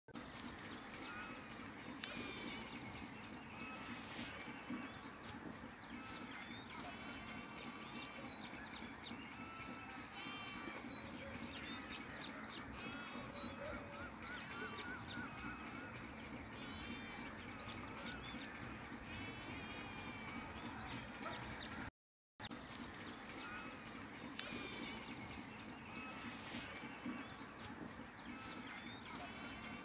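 Birds chirping and calling repeatedly, many short whistled notes over a low steady outdoor background, cutting out briefly about two-thirds of the way through.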